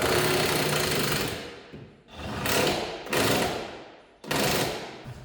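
Power tool run in four short bursts, each cutting in suddenly and winding down after release, used on the car's rear hub and brake parts.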